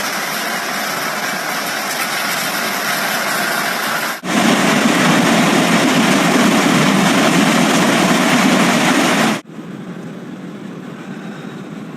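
Hail and heavy rain pelting down as a steady rushing noise, in three clips cut together. The loudest and deepest clip runs from about 4 to 9 seconds, and a much quieter one follows.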